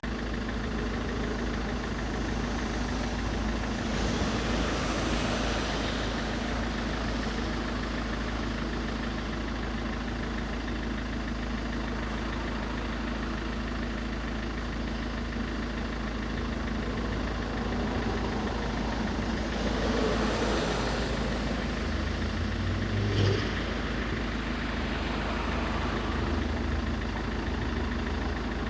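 Iveco Daily van's diesel engine idling steadily, with one brief louder knock about three-quarters of the way through.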